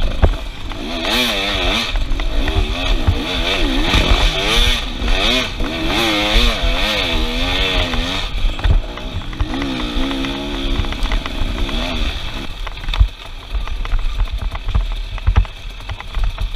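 Small off-road vehicle engine revving up and down over and over as the throttle is worked, then holding a steadier pitch before fading near the end, with low thuds underneath.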